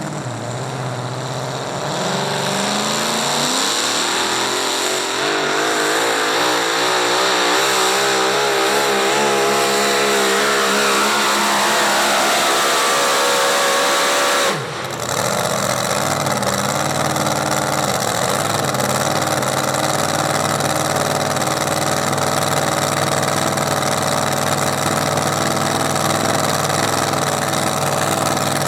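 Competition pulling vehicle's engine under heavy load, its pitch climbing and wavering for about twelve seconds. About fourteen seconds in it cuts off abruptly, and a steady engine sound follows to the end.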